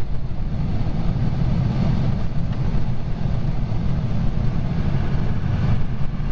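Steady engine and road rumble of a moving emergency vehicle, heard from inside the cab.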